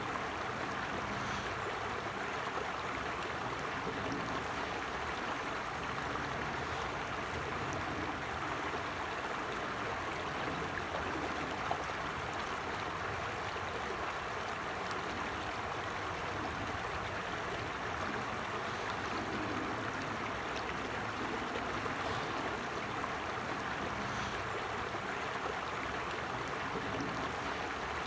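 Creek water flowing steadily, a constant even rushing that holds unchanged throughout.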